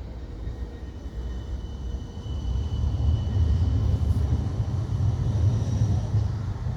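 Tram running past with a low rumble that grows louder about two and a half seconds in, with a faint high whine above it.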